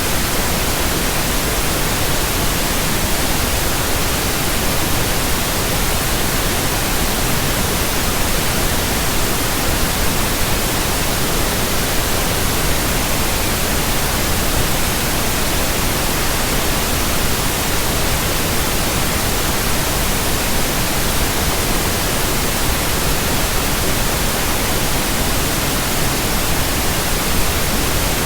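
Steady pink noise: an even, unchanging hiss with no breaks or variation.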